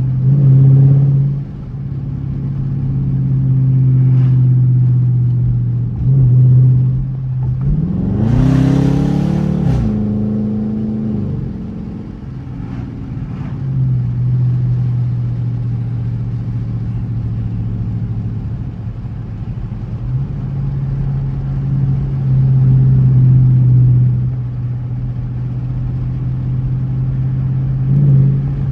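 Dodge Charger R/T's V8 engine droning steadily at cruise. About eight seconds in it revs up briefly with a rising pitch and a burst of rushing noise, then settles back to a steady drone.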